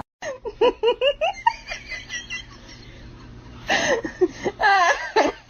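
A person laughing: a quick run of short laughs, then louder laughter in the last two seconds.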